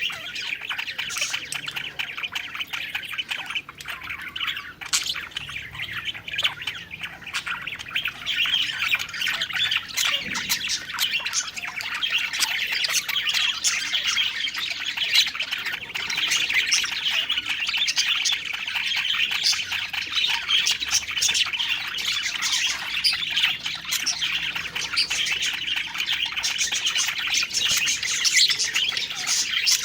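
A flock of budgerigars (parakeets) chattering, warbling and chirping continuously, with occasional sharper squawks.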